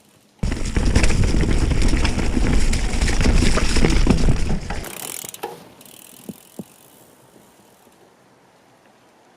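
Mountain bike being ridden over a rough trail: a loud rumble of tyres and rattling frame for about four seconds, then it drops off to a quiet stretch with a few faint clicks of the freewheel.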